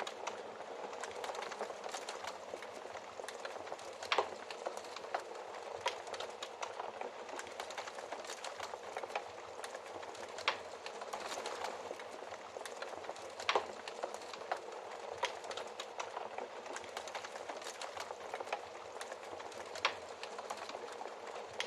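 Wood fire crackling: a steady hiss with many irregular snaps and pops, a few of them louder.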